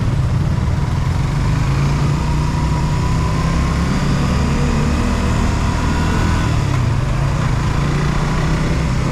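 Motorcycle engine running steadily while riding, with wind rushing over a helmet-mounted camera.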